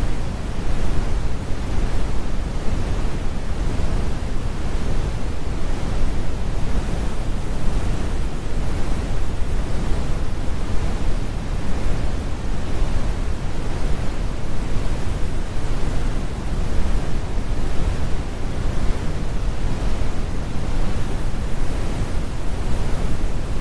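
Computer-generated brown noise: a steady, deep rumbling hiss, heaviest in the low end, with the high frequencies rolled off.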